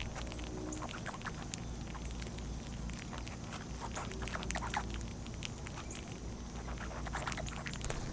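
Small birds and animals at a backyard feeder: many short, sharp chips and light clicks and rustles scattered irregularly, over a steady low hum.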